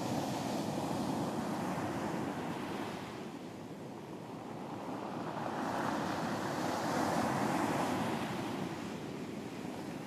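Ocean waves breaking on a beach, a steady surf wash that swells, eases off, and swells again about six seconds in.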